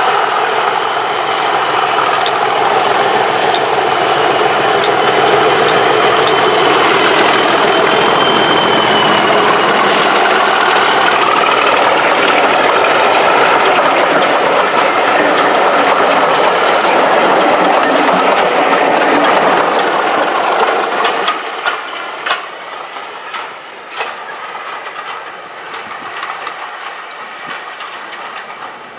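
Class 37 diesel locomotive's English Electric V12 engine working loudly under power. About twenty seconds in it fades away, leaving a run of sharp clicks of wheels over rail joints and a quieter rolling train.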